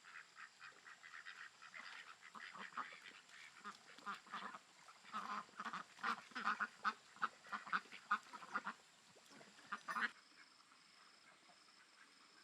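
Ducks quacking, a rapid chatter of many short calls. They are loudest in the middle and stop abruptly about ten seconds in.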